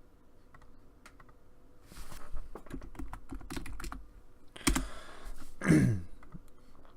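Computer keyboard typing: a few scattered key clicks, then a quick run of keystrokes, with two louder knocks about a second apart near the end.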